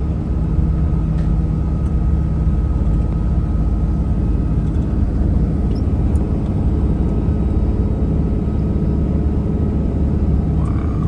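Steady drone of a vehicle driving at road speed, heard from inside the cabin: a constant low rumble of engine and tyres.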